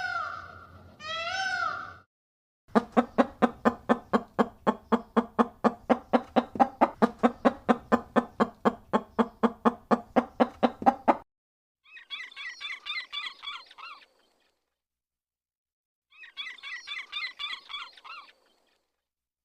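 A string of different recorded animal calls: a short pitched call that ends about two seconds in, then a long run of rapid calls repeated evenly about four times a second, then two separate bursts of high warbling calls with a pause between them.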